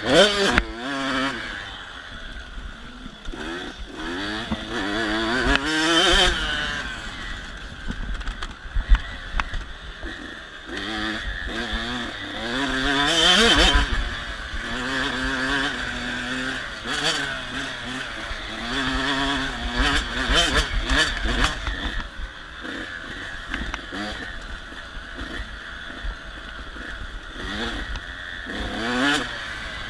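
KTM 85 SX two-stroke dirt bike engine revving hard, its pitch climbing and dropping again and again as the bike accelerates, shifts and backs off.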